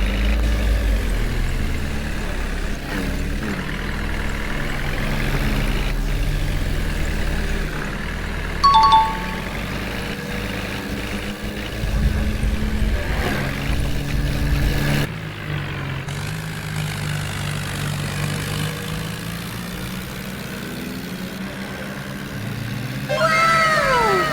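Heavy diesel engine running steadily, its pitch shifting a little as it works. A short two-note beep sounds about nine seconds in, and a few falling tones are heard near the end.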